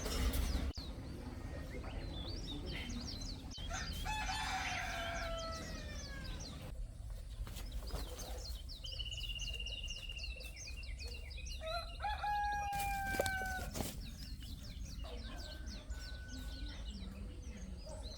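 Rooster crowing, twice, with the calls falling in pitch at the end. Small birds chirp throughout.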